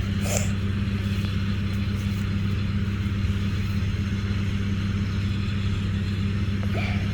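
An engine running steadily at constant speed, a low even hum, with a couple of faint ticks.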